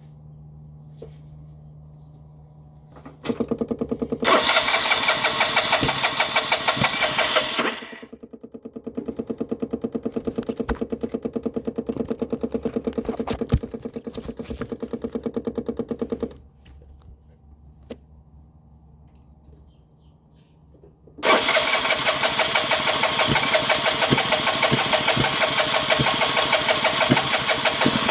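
2009 Vespa LX150 scooter's electric starter cranking its single-cylinder engine in long runs, a fast even pulsing, starting about three seconds in and again about twenty-one seconds in after a short pause; the engine does not catch, a no-start condition.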